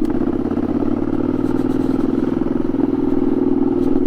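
Ducati Scrambler 800's air-cooled L-twin engine running at steady revs through an unbaffled Arrow titanium exhaust, as the motorcycle is ridden.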